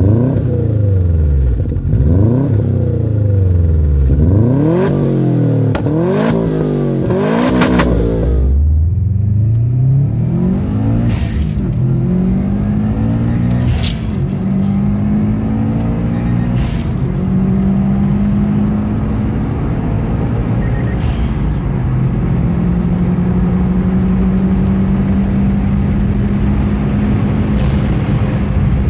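Subaru Impreza WRX STi turbocharged flat-four engine through a Fujitsubo aftermarket exhaust, revved repeatedly at standstill in quick blips that rise and fall in pitch. About eight seconds in it changes to the same model heard from inside the car under hard acceleration: the engine pitch climbs and drops back at each of several gear changes, then holds a steady pull.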